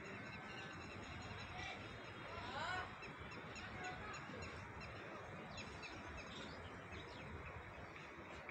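Several birds chirping and calling in short, repeated notes and quick rising whistles over a steady outdoor background noise. The loudest call is a rising whistle a little under three seconds in.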